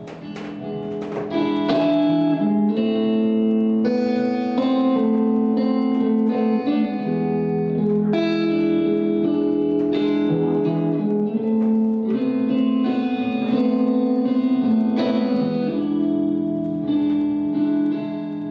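Guitar playing an instrumental break in a song, plucked notes and chords ringing on over one another with no singing.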